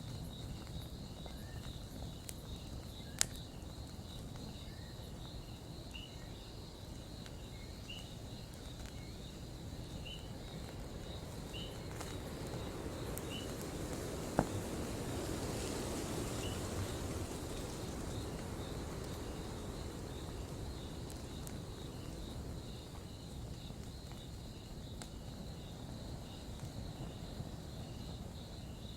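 Campfire burning with a steady low rush and a few sharp crackling pops, the loudest about halfway through, its noise swelling for several seconds midway. Insects chirp steadily behind it, and a short repeated chirp sounds about every one and a half seconds in the first half.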